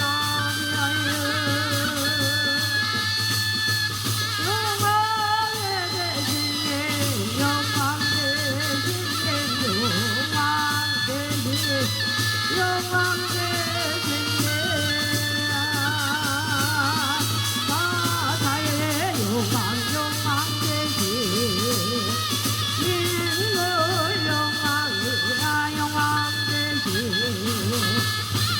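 Korean shamanic ritual (gut) music: several wavering melodic lines with heavy vibrato, sung or played, held at a steady level over a constant low hum.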